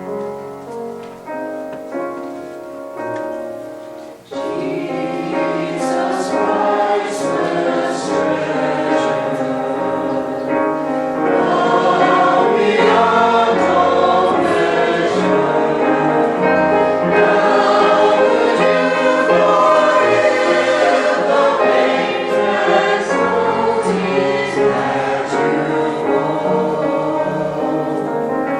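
A church choir sings a section of a cantata. Soft accompaniment plays for about the first four seconds, then the full choir comes in suddenly and sings on.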